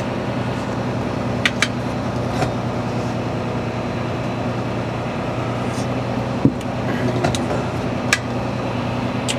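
Western Star 49X semi truck's diesel engine running steadily at low speed while the truck creeps along, with a few sharp clicks and a single knock about six and a half seconds in.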